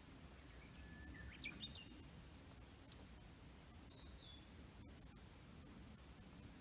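Faint outdoor evening ambience: a steady high-pitched insect trill, with a few short bird chirps about a second and a half in and again around four seconds, and a single faint click near three seconds.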